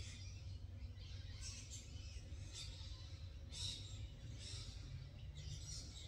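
Faint birdsong: short, high chirps every second or so over a low, steady background hum.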